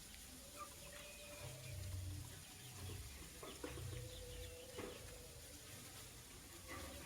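Faint, scattered short bird chirps and calls, with a low rumble for a few seconds in the middle.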